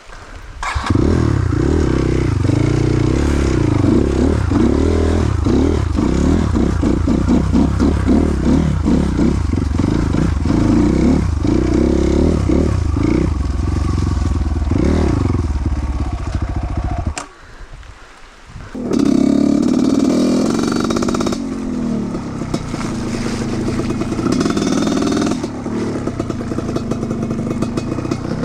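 Trail motorcycle engine running loud, revving up and down over and over. It drops away for a second or two about seventeen seconds in, then runs again.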